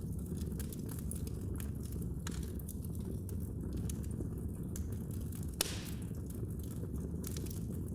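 Fire in a fireplace crackling: a steady low rumble of flames with scattered small snaps, and one louder pop about five and a half seconds in.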